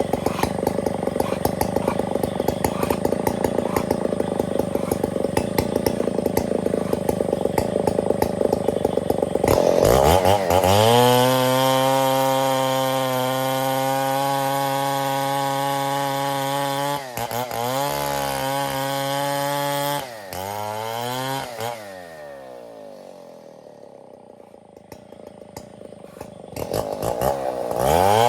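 Stihl 070 chainsaw's large two-stroke engine running rough and noisy at first. About ten seconds in it revs up to a steady high pitch, falters briefly, then winds down to a quieter idle, and near the end it revs up again.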